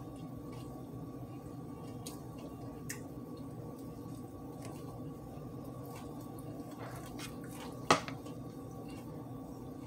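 A person chewing crispy fried chicken, with faint small mouth clicks over a steady low hum. One sharp knock about eight seconds in is the loudest sound.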